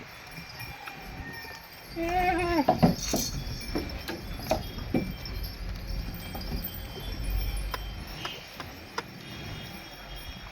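A goat bleats once, briefly, about two seconds in, followed by a scatter of sharp clicks and knocks over the next few seconds.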